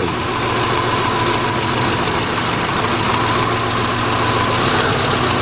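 2000 Subaru Impreza Outback's 2.2-litre flat-four engine idling steadily, running rough with a misfire that is being traced to a cylinder on one side of the engine.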